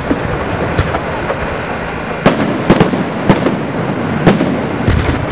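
Aerial fireworks display: a dense, continuous din of bursting shells, with sharp bangs in quick succession from about two seconds in and a deeper boom near the end.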